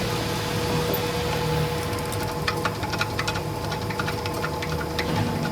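Workshop machinery running with a steady hum, joined about two seconds in by irregular sharp clicks.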